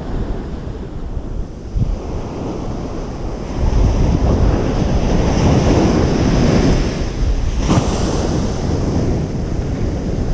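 Ocean surf breaking and washing up a beach, swelling louder about a third of the way in as a wave comes in, then easing back. Wind rumbles on the microphone underneath.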